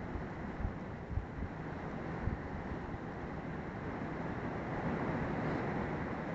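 Thunderstorm rain and strong wind, a steady rushing noise, with gusts buffeting the microphone in a few low thumps during the first couple of seconds.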